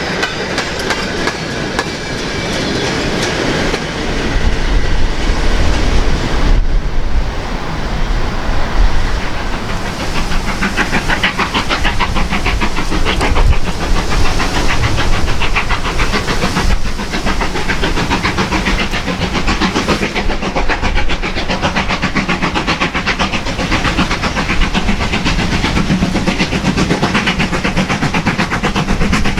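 Steam-hauled train running past, with a rapid, even clatter of carriage wheels over the rail joints that grows louder about four seconds in.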